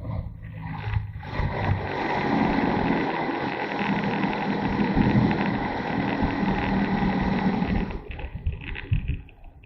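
Motorcycle engine running under way, mixed with wind rush. The sound swells about a second in, holds steady, and drops away near the end.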